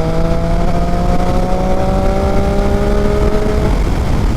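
Motorcycle engine pulling under acceleration, its note rising slowly, then breaking off about three and a half seconds in, over a heavy low wind rumble.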